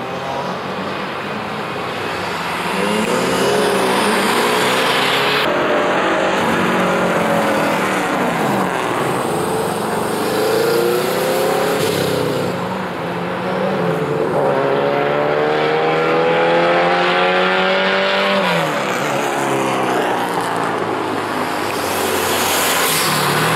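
Autocross car's engine accelerating hard and lifting off again and again through a timed run. Its pitch climbs several times and drops away after each climb, with the longest climb about two-thirds through. Steady tyre and road noise runs underneath.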